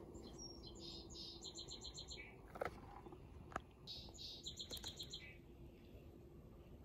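A songbird singing the same phrase twice: a few high notes, then a quick run of repeated notes ending on a lower note. A couple of short light taps come between the two phrases.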